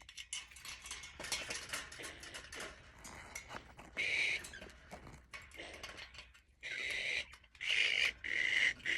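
Pet parrots squawking: a harsh call about four seconds in, then a run of short squawks in the last two seconds, over clicking and rattling of cage parts being handled and screwed together.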